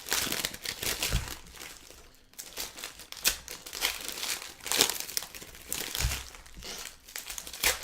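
Trading card pack wrappers crinkling and tearing as packs are opened and handled, in irregular crackles with a brief lull about two seconds in.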